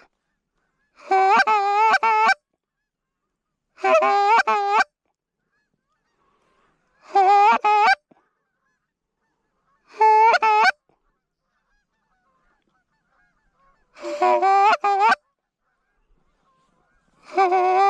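Goose honking: about six short bursts of several quick, loud, pitched honks each, coming every few seconds with quiet in between.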